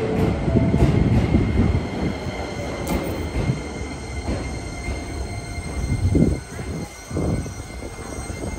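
Electric commuter train passing close alongside on the next track: a loud low rumble of wheels and running gear with uneven surges, and a thin steady whine above it.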